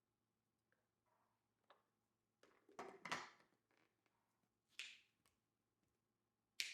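A few light clicks and taps of kitchen things being handled during snack preparation, the loudest cluster about three seconds in, with single sharper clicks near five seconds and at the very end.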